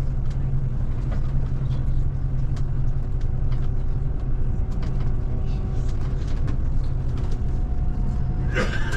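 Scania Touring coach's diesel engine and road rumble heard from inside the cabin while driving, a steady low drone with light rattles. A short burst of noise comes near the end.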